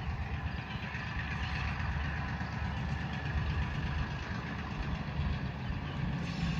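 Diesel locomotive engine rumbling low and steady as the train approaches, growing a little louder near the end; no horn sounds.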